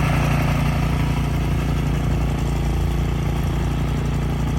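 Snow blower engine running steadily with a constant low hum.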